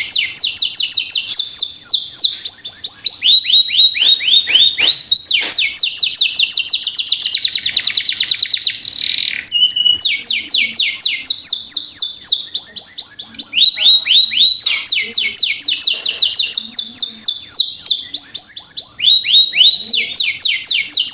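Canary singing: fast runs of repeated, quickly falling notes, each run switching to a new rolling phrase every second or two, with brief pauses about nine and fourteen seconds in.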